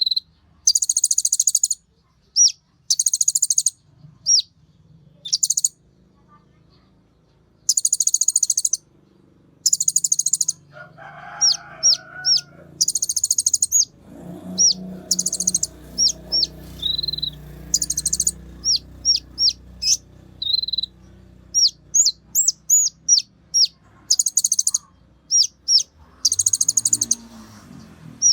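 Olive-backed sunbird (kolibri ninja) singing: repeated rapid, high, buzzy trills of half a second to a second each, alternating with short, sharp, falling chips.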